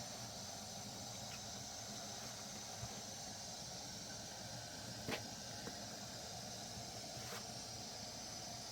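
Faint steady hiss, broken by a few soft clicks or knocks, the clearest about five seconds in.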